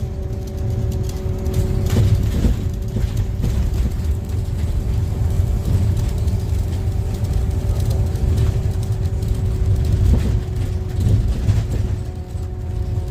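Scania N250UD double-decker bus heard from the top deck while under way: a deep engine and road rumble with a steady whine over it, the whine stepping slightly higher near the end.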